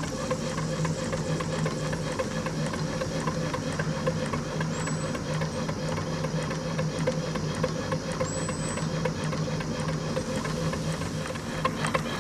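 2 inch scale Fowler Z7S steam ploughing engine running steadily, with a continuous hum and fast light clattering from its motion.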